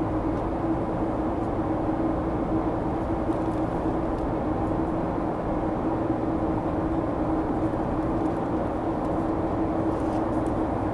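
Airliner cabin noise: a steady rumbling drone with a constant low hum.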